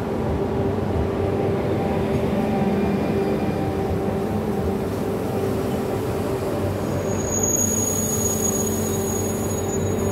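Renfe passenger train rolling slowly past along the platform with a steady hum of running gear. A thin high whine joins about three-quarters of the way in.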